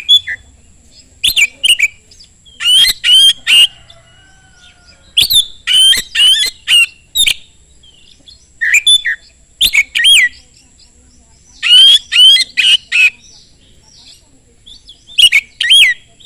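Oriental magpie-robin (kacer) singing in loud bursts of rapid whistled and scratchy notes, the bursts separated by pauses of a second or so. Fainter calls from other birds are heard between them.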